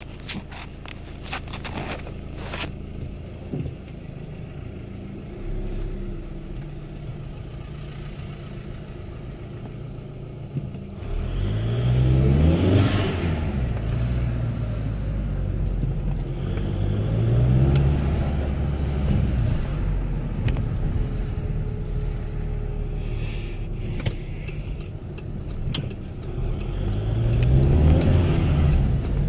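2.0 TDI BKD turbodiesel engine, stock and healthy, running steadily, then pulling hard three times with its pitch climbing, about eleven, seventeen and twenty-seven seconds in. Under load its turbo wastegate makes a fluttering "flufluflu" sound.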